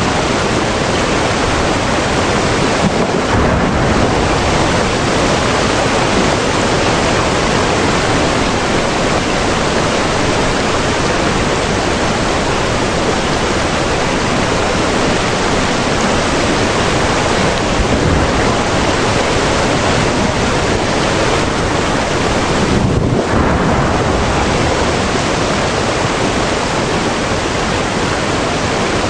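Steady, dense rushing noise with no distinct pops or crackles.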